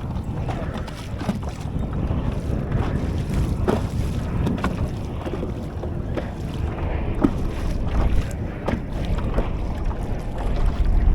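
Wind buffeting the microphone on a kayak out on the water, with scattered short splashes and knocks of water against the hull.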